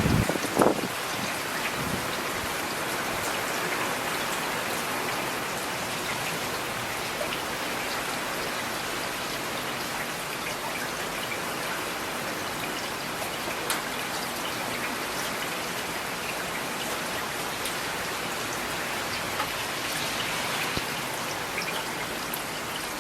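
Steady rain falling, with individual drops clicking on a surface, and a single low thump about a second in.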